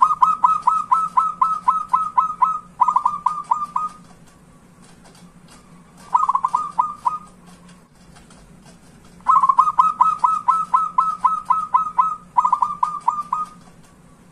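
Zebra dove (perkutut) calling in phrases of rapid staccato coos, about five notes a second. Long phrases of about a dozen notes alternate with short ones of about five, with pauses of a few seconds between them.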